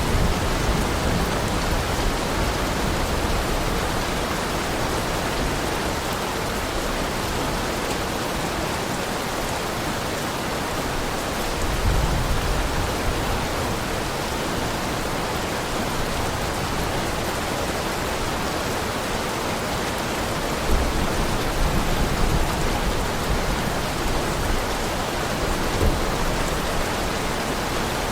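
Heavy rain falling steadily, an even hiss of drops, with a couple of brief low rumbles about twelve and twenty-one seconds in.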